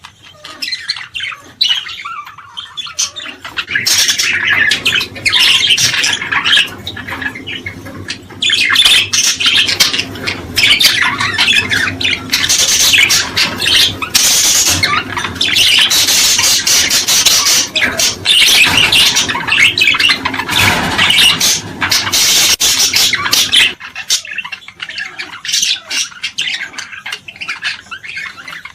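A flock of small cage birds chirping and calling loudly in fast, overlapping bursts, busiest through the middle and thinning out near the end. It is the kind of bird chorus played to stimulate cage birds to sing.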